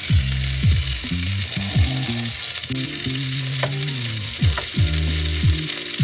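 Burger patties sizzling and frying in a pan on a camping gas stove, a steady hiss, with background music carrying low bass notes underneath.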